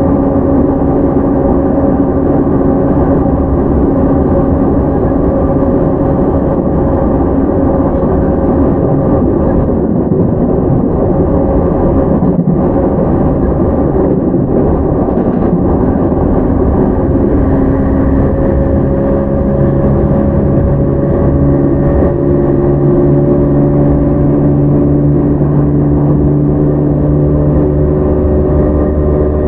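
E231-0 series commuter train running at speed, heard from inside motor car MoHa E231-110: steady rail and running noise with the hum and whine of its Mitsubishi IGBT-VVVF-driven traction motors and gears. In the second half the tones slowly rise in pitch as the train picks up speed.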